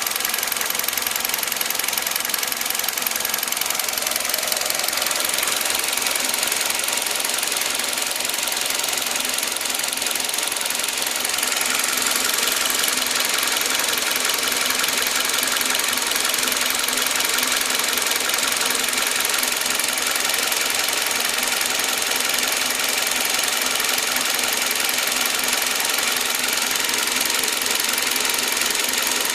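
Hyundai i20 engine running steadily, with a fast, even ticking clatter over the hum. It gets a little louder about twelve seconds in.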